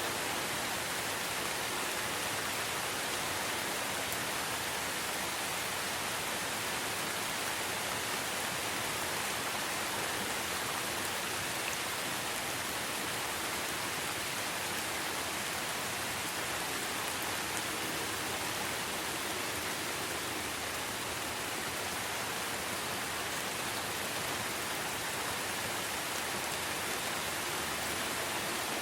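Steady rainfall, an even hiss of many drops with a few faint tiny ticks, no change in strength.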